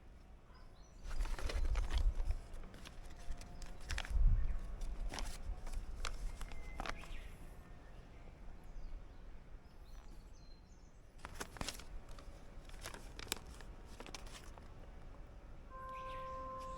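Irregular outdoor rustling and crunching with sharp clicks, with a couple of low bumps in the first few seconds, typical of someone moving about and handling gear.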